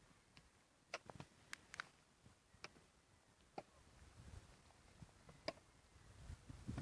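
Faint scattered clicks and taps, several close together about a second in and single ones later, over a low rumbling handling noise that grows louder near the end.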